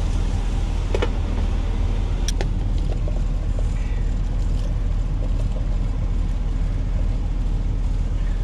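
Semi-truck's diesel engine idling, heard inside the cab as a steady low rumble, with a couple of light clicks about one and two and a half seconds in.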